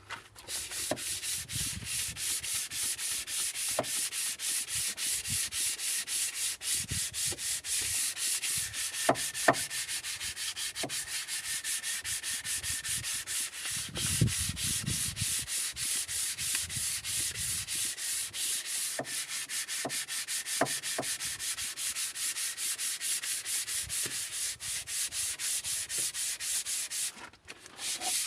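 Abrasive being rubbed over the deck surface of an engine block in quick, even back-and-forth strokes: the block face being ground flat and clean for a new head gasket. It breaks off briefly near the end, then resumes.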